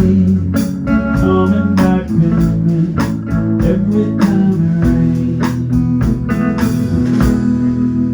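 Band playing a blues-style instrumental passage: guitar and organ over bass and a steady drum beat of about two hits a second.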